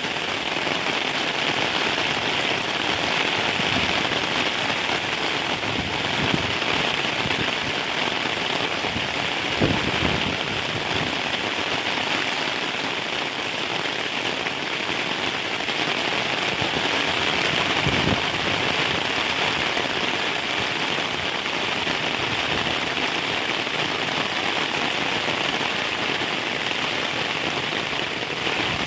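Heavy rain falling steadily in a dense, even hiss, with a few short low thumps scattered through it, the loudest about ten seconds in.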